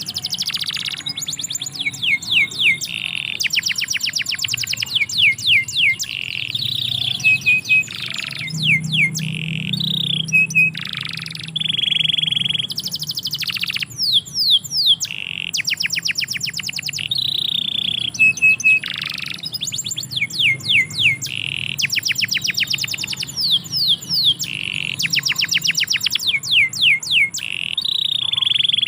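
Domestic canary singing a long, continuous song of rapid repeated trills, buzzy held notes and short whistles.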